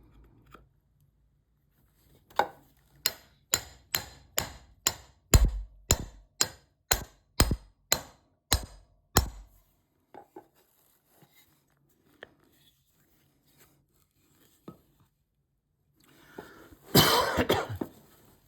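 A run of about fifteen sharp, even strikes on wood, about two a second, in the manner of a mallet or hammer working a chisel or driving an axe head. A short rough burst of noise comes near the end.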